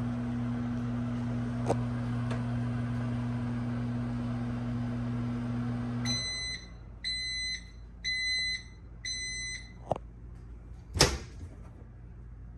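A Whirlpool UMV1160CB-7 microwave oven running empty with a steady hum, which stops about six seconds in. Four high beeps follow about a second apart, the end-of-cycle signal, then a click and a knock.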